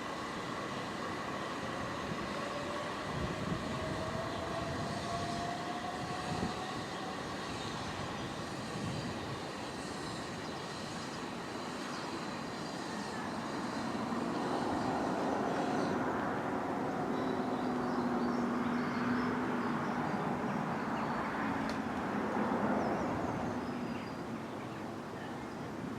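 A train running past on the railway: continuous rumble and rail noise with steady whining tones, one of them slowly rising in pitch early on, getting louder about halfway through.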